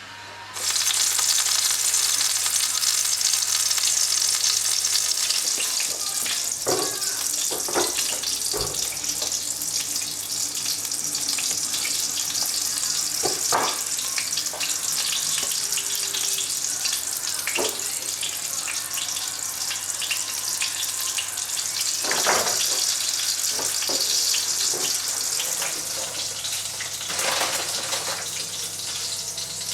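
Running water, turned on suddenly about half a second in and hissing steadily, with a few knocks and clatters over it.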